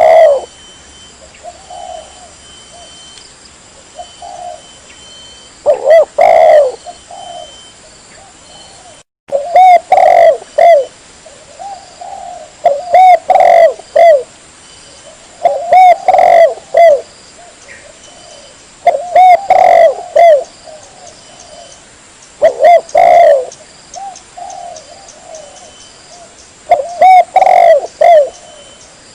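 Spotted dove (tekukur) cooing: a loud phrase of several wavering coos repeated every three to four seconds, a recorded lure call of the species.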